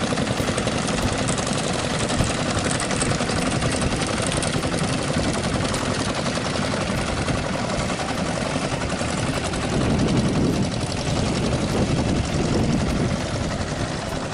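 Strong wind buffeting the microphone: a loud, rough rushing that swells and eases, strongest about two-thirds of the way through.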